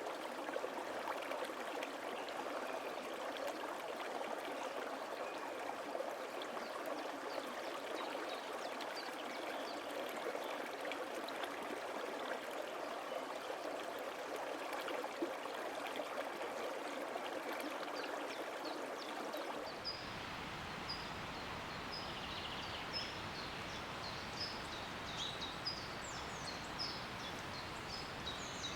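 A stream of water running steadily, then an abrupt cut about two-thirds of the way through to rainforest ambience with a high chirping call repeated over and over, roughly once or twice a second.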